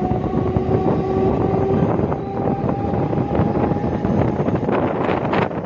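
Suburban electric local train running at speed, heard from its open doorway: a steady rumble of wheels on rails with wind buffeting the microphone. A steady whine sounds over the first few seconds, then fades, and the wind gusts grow stronger near the end.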